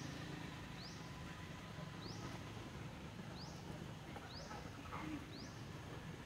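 A bird repeats a short, high, quickly rising call about seven times, roughly once a second, over a steady low background noise.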